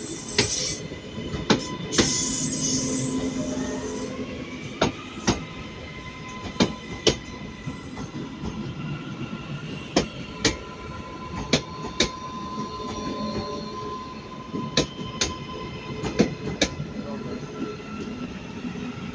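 Passenger train moving slowly over station pointwork: sharp wheel clicks over rail joints and points at irregular intervals, with a steady high wheel squeal on curved track.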